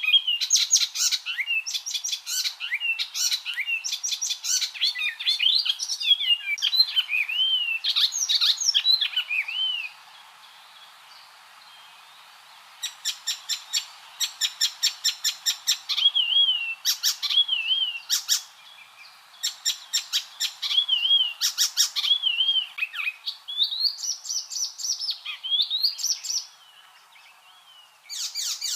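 Icterine warbler singing a varied, chattering song: fast rattling series of short notes mixed with whistled notes that slide up and down. The phrases are broken by a pause of a few seconds about a third of the way in and another near the end.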